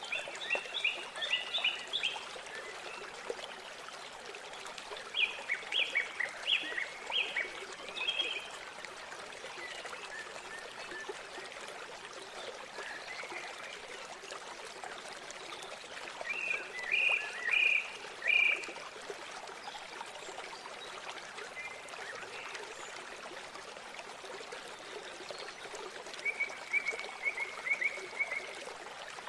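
Steady rush of flowing river water with bird calls over it. The calls are bursts of short, repeated high chirps that come about four times, the last a quick trill.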